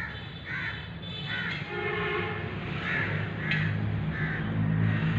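Crows cawing repeatedly, with a low steady engine hum coming in about three seconds in and growing louder.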